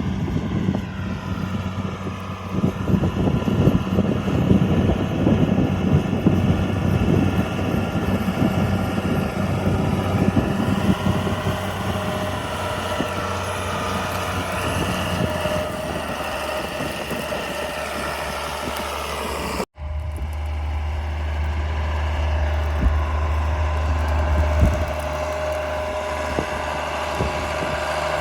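John Deere 4955 tractor's six-cylinder diesel engine running steadily under load. About two-thirds of the way in the sound cuts out for an instant and returns as a steadier, deeper drone.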